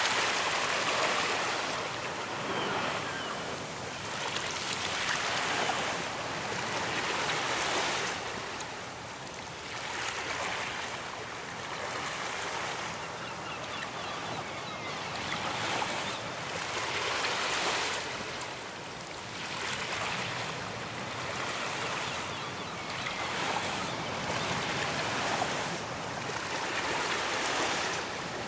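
Sea waves breaking on a beach. The surf swells and washes back in a steady rhythm, one wave every two to three seconds.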